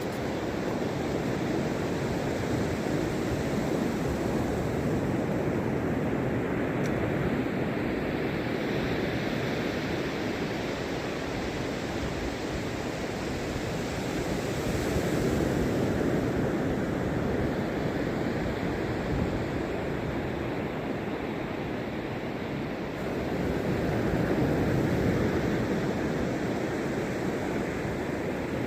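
Sea surf washing on a beach under steady wind buffeting the microphone, swelling louder as waves break about halfway through and again near the end.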